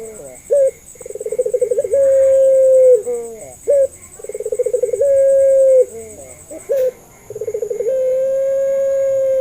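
Puter pelung, a long-cooing domestic ringneck dove, cooing over and over. Each of the three coos opens with a quick stuttering run of notes, settles into a long steady hoot and drops in pitch at the end, with short clipped notes between the coos.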